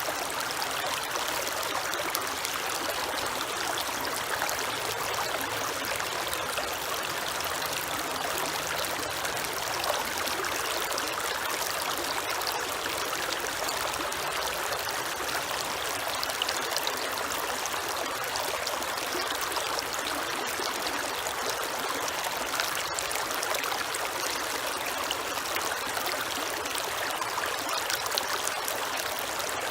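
Creek water running and trickling steadily, a constant splashing rush with small ripples and splashes in it.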